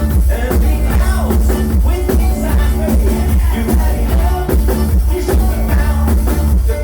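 A bluegrass cover band playing live and loud, with a driving drum beat and a heavy bass line.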